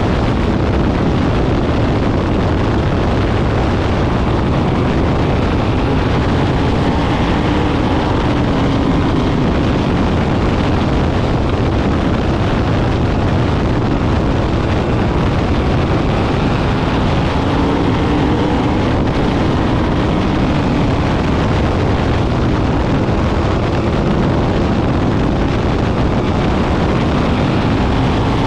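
Sprint car engines running at racing speed: a dense, steady, loud sound in which the engine pitches rise and fall as the cars come by.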